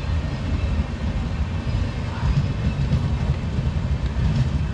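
Passenger train's coaches rolling past on the adjacent track, a steady low rumble of wheels on rails.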